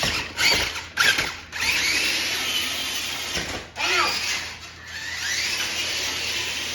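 Small electric motor of a toy monster truck whining as it drives, in bursts that start suddenly several times, with a whine that rises and falls in pitch as it speeds up and slows.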